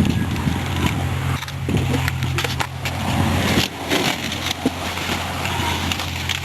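Irregular crunching and crackling with a few knocks, over the steady low hum of a car engine left idling.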